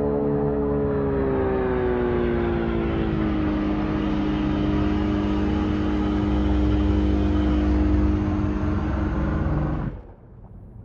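Loud droning hum of several layered pitches over a low rumble; the pitches slide down over the first few seconds, then hold steady until it cuts off abruptly near the end.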